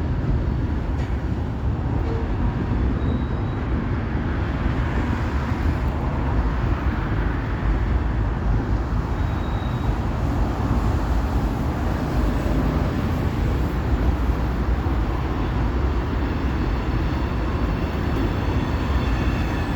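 Moving train running steadily: a continuous low rumble with no breaks.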